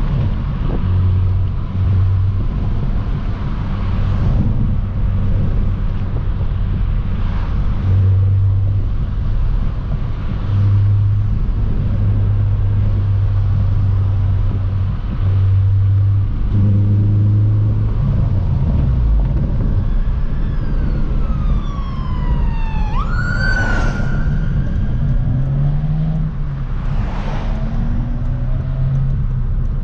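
Car engine and exhaust running steadily while driving, with a low drone. About two-thirds of the way through, a police siren sweeps down in pitch and then jumps back up for a few seconds.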